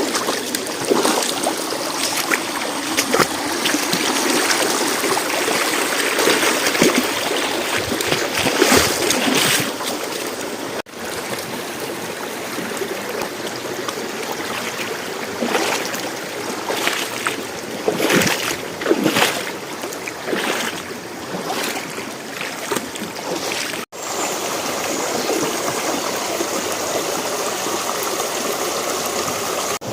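Forest creek running over rocks, a steady rush of water with frequent short splashes. It cuts off abruptly twice, about 11 and 24 seconds in, and after the second cut the flow sounds smoother and more even.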